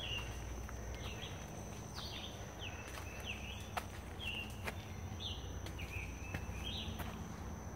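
Woodland songbird singing a short, high, sweeping phrase over and over, about once a second, over a steady high-pitched hum. A few faint footstep clicks on the dirt path.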